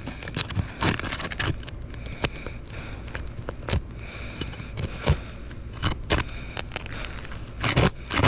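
Roof shingles being pried loose with a tool worked underneath them: irregular scraping, crackling and sharp clicks as the sealed shingle tears and the one beneath is damaged. The shingle is breaking up rather than releasing cleanly.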